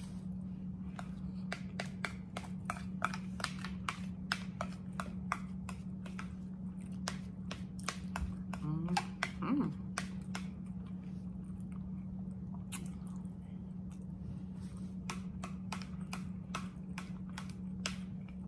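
Close-miked chewing with wet mouth smacks and clicks, about two or three a second, over a steady low hum. A short hummed vocal sound comes about nine seconds in.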